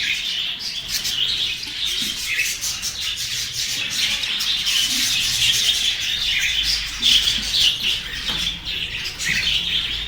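A budgerigar colony chattering and chirping continuously, with many birds calling over one another.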